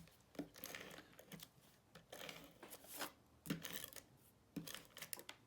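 Faint rustling and light taps of cardstock being handled, laid in place and pressed down, in short scattered bursts.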